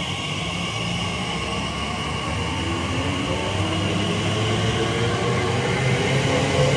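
A passing train's running noise growing steadily louder as it comes closer, with a whine that rises in pitch near the end.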